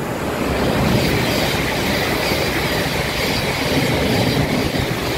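Thameslink Class 700 electric multiple unit running through the station at speed without stopping, its wheels rushing loudly on the rails. The noise builds over the first second, then holds steady.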